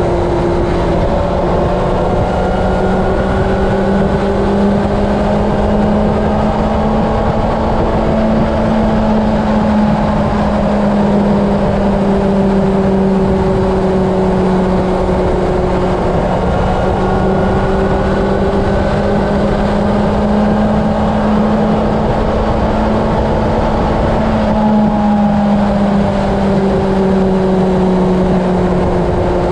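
Honda CB750 inline-four engine running at steady highway speed, its note drifting gently up and down with the throttle, under heavy wind rush and road rumble on the bike-mounted camera.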